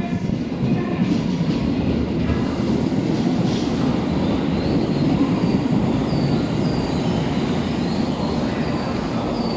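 Tobu Railway train running past close by along the platform: a steady, loud rumble of wheels on rail, with short high wheel squeals repeating through the second half.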